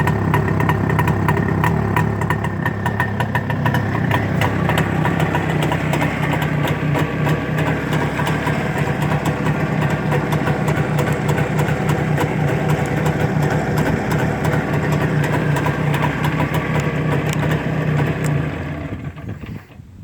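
Jawa 634's freshly rebuilt two-stroke twin engine running steadily at an even pitch, then dying away near the end.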